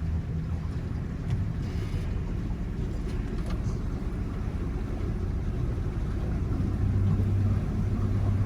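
Boat motor running steadily under way: a low engine hum over a steady rushing noise, growing a little louder near the end.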